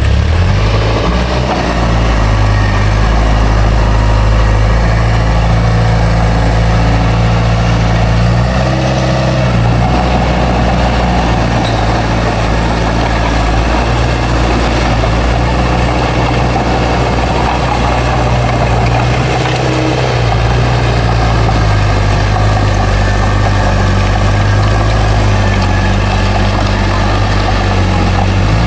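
Bulldozer's heavy diesel engine running steadily, its pitch shifting briefly about 9 seconds in and again about 20 seconds in as the load changes.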